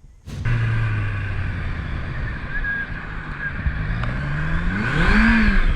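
Motorcycle engine running under heavy wind noise on the rider's microphone, starting suddenly about half a second in; near the end the engine revs up and then drops back.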